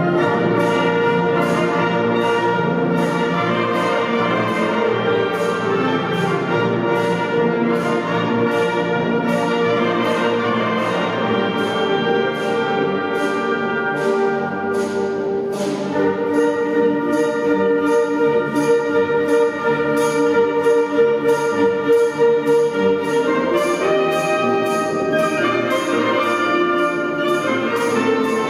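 Music: a band with brass instruments playing sustained chords and a tune over a steady percussion beat.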